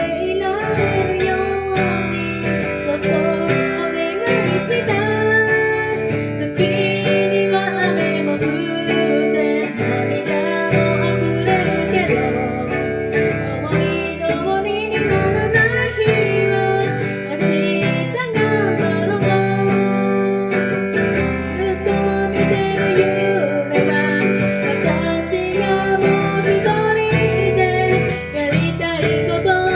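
A song performed with strummed acoustic guitar and a singing voice carrying the melody.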